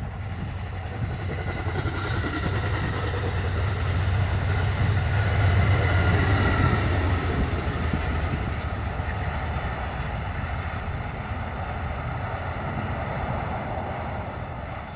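A train passing by, its rumble building to a peak about six seconds in and then slowly fading.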